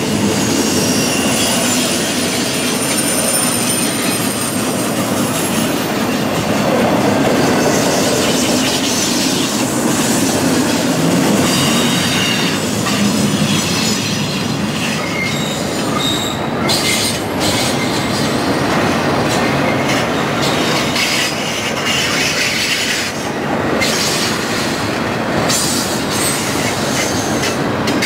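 Double-stack intermodal freight train cars rolling past, a steady loud rumble of wheels on rail. Thin high wheel squeals come and go in the first half, and clickety-clack clicks from the wheels in the second half.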